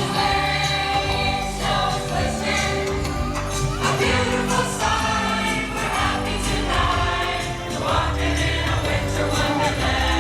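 A choir singing a Christmas carol with musical accompaniment, continuous throughout.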